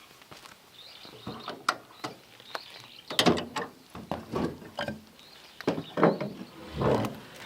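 Irregular knocks, scrapes and clatters of objects being handled, several of them, the loudest about three and six seconds in.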